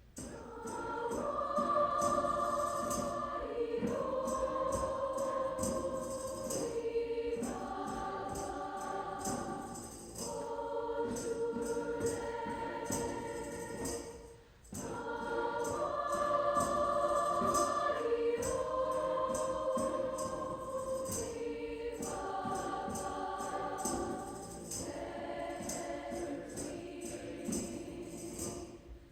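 Choir singing in sustained phrases of a few seconds each, backed by a shaken percussion instrument keeping a steady beat.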